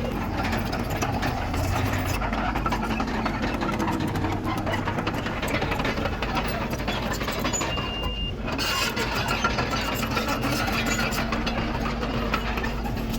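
Diesel engine of a Komatsu D31PX crawler bulldozer running steadily under load, with continuous fine rattling clatter.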